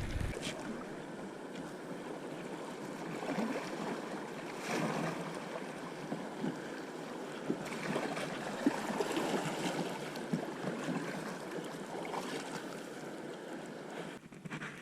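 Moving river water around a kayak: a steady rush with scattered brief crackles and splashes.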